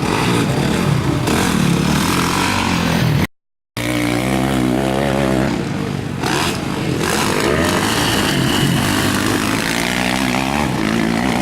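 Motocross bikes racing, engines revving up and down through the gears. The sound cuts out completely for about half a second, a little over three seconds in.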